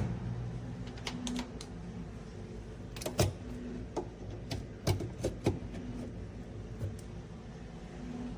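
A series of irregular light clicks and taps, about a dozen, with a few louder knocks about three and five seconds in.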